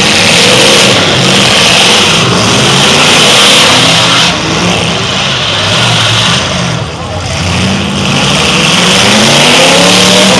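Several demolition derby cars' engines running and revving hard at once, their pitches rising and falling as they drive.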